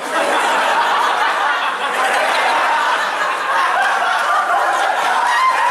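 A group of people laughing and chattering all at once, starting suddenly.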